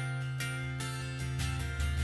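Worship band music without vocals: acoustic guitar strumming in a steady rhythm over a held low note.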